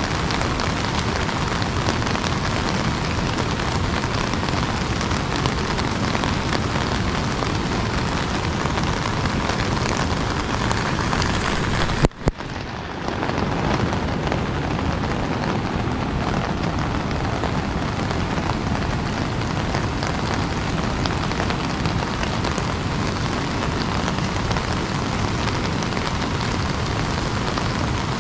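Steady rain pattering on an umbrella overhead, a dense hiss of drops. About twelve seconds in it breaks off briefly with two sharp clicks, then fades back in.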